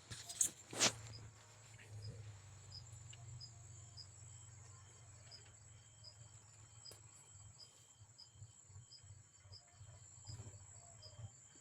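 Insects, likely crickets, chirping in a steady, regular pulse about twice a second over a faint low hum, with two short knocks in the first second.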